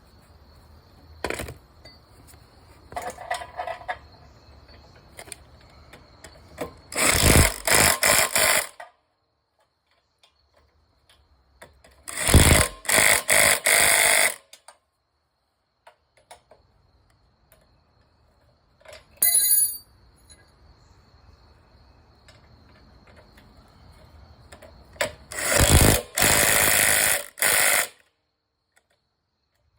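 Impact wrench hammering engine mounting bolts tight in three bursts of about two seconds each, with a shorter burst and quieter tool clatter between.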